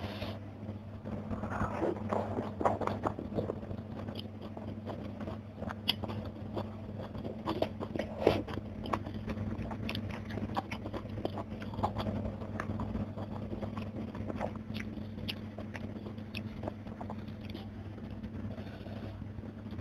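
Close-miked eating: chewing and biting with irregular crisp crunches, as raw young eggplant dipped in sambal and crispy fried fish are eaten. A steady low hum runs underneath.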